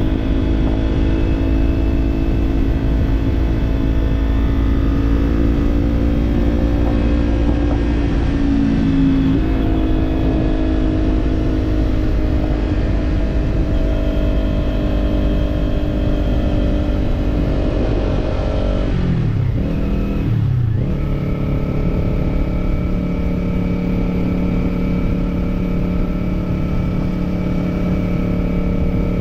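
Kawasaki parallel-twin motorcycle with an aftermarket slip-on exhaust running along at steady throttle, with low wind rumble on the on-bike camera. About two-thirds of the way through, the engine note dips and wavers briefly, then settles at a new steady pitch.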